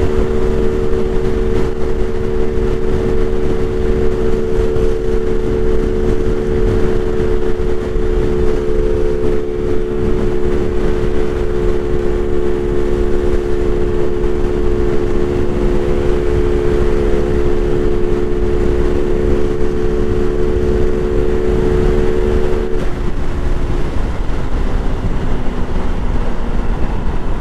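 Honda Navi's small single-cylinder engine running at a steady cruising speed, with wind noise on the microphone. About 23 seconds in, the engine note drops as the throttle is eased off.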